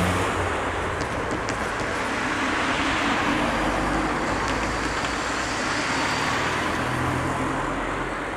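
Road traffic: cars driving past over the level crossing, a steady rush of tyres and engines, with one engine hum at the start and another about seven seconds in.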